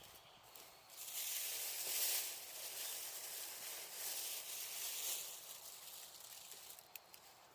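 Wood fire hissing for about five seconds, starting about a second in, with a few sharp crackles near the end.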